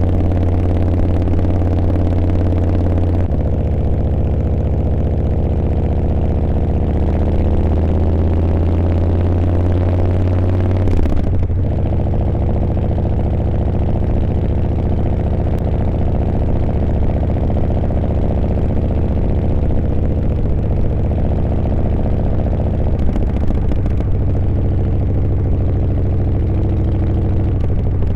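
Harley-Davidson Milwaukee-Eight V-twin engine running steadily under way. Its pitch steps twice, about three seconds in and again about eleven seconds in, and rises slowly in between.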